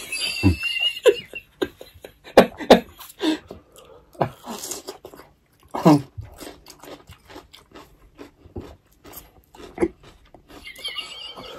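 Close-miked chewing with irregular crunchy bites and mouth clicks as raw yellow bell pepper slices are eaten.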